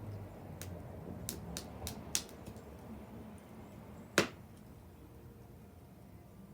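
Wood bonfire crackling: a handful of sharp snaps in the first couple of seconds, then one loud pop about four seconds in.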